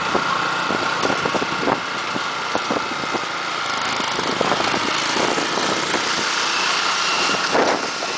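Motorcycle engine running steadily while riding, with frequent short knocks and rattles.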